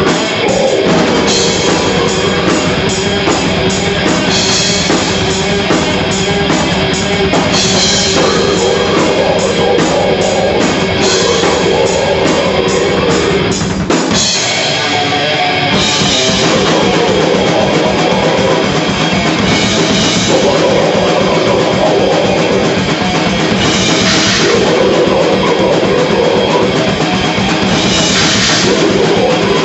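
Death metal band playing live: distorted guitar and fast, dense drumming with repeated cymbal crashes, loud and continuous. About fourteen seconds in, the low end drops out for a couple of seconds before the full band comes back in.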